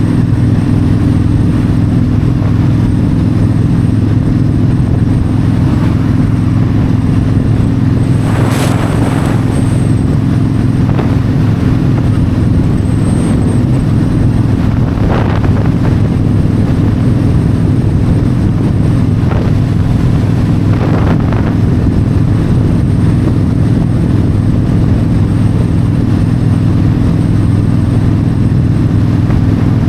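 Yamaha V-Star 1300's V-twin engine running steadily at highway cruising speed, with wind rushing past the motorcycle. A few brief rushes of noise come through about 9, 15 and 21 seconds in.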